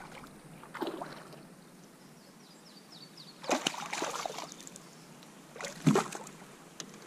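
Kayak paddle strokes splashing in the water, three strokes a couple of seconds apart, with water sloshing and dripping between them.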